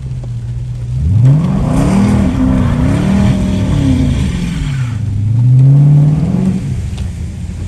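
A vehicle engine revving and accelerating: its pitch climbs sharply about a second in, wavers, drops around five seconds, then climbs again.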